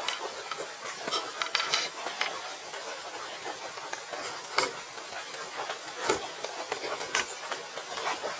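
Scattered light knocks and clicks, about half a dozen at irregular intervals, over a steady hiss.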